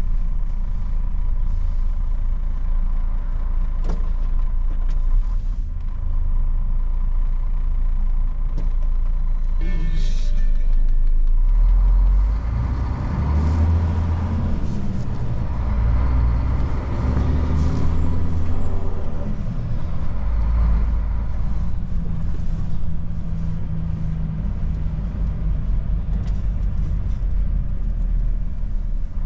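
Old Mercedes truck's diesel engine running while driving, a steady low rumble that grows louder for several seconds from about twelve seconds in as it pulls harder. A short hiss comes about ten seconds in.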